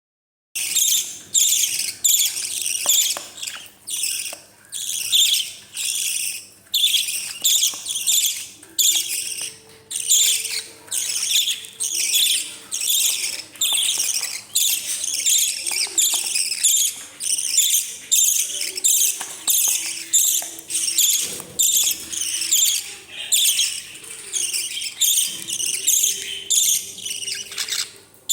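Parrot chicks giving rasping begging calls in a rapid, steady series, about two calls a second: the food-begging cries of hungry young parrots at feeding time.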